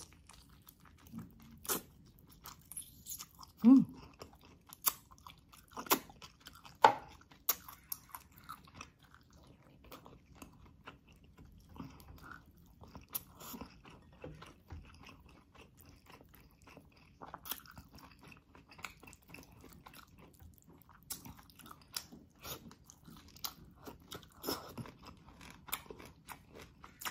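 Close-miked chewing and biting of tomato-braised beef rib meat: a steady run of irregular mouth clicks and smacks, with a few louder ones in the first several seconds.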